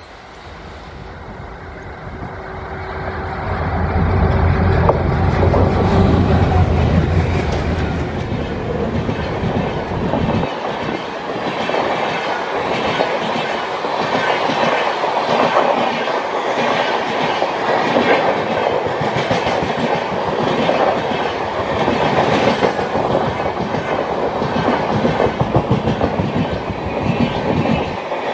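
Indian Railways WDM-3D diesel locomotive passing close by, its engine's deep rumble swelling to a peak a few seconds in and dying away. Then the train's passenger coaches roll past with a steady rhythmic clatter of wheels on the rails.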